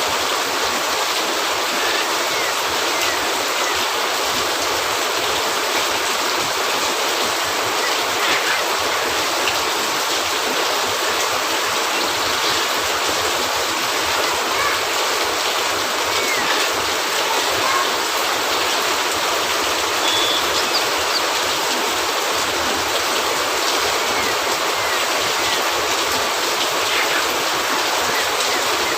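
Steady heavy rain falling on a cabin roof, a continuous even hiss.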